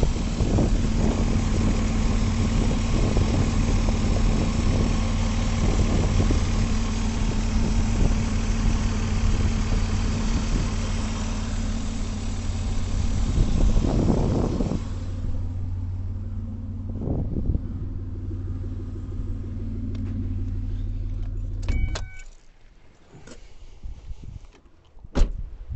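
2003 Ford Escape engine idling steadily, then shut off abruptly about 22 seconds in, followed by a few sharp clicks and a knock.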